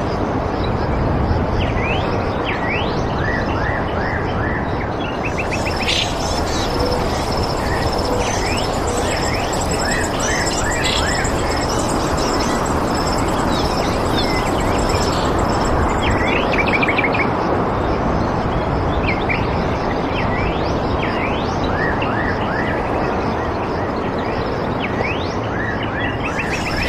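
Small birds chirping and calling repeatedly over a steady rushing background. A thin, steady high tone joins about five seconds in and drops out near the end.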